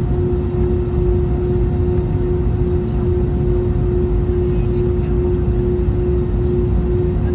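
Airbus A321neo jet engines running steadily: a loud, even rumble with a constant hum tone over it.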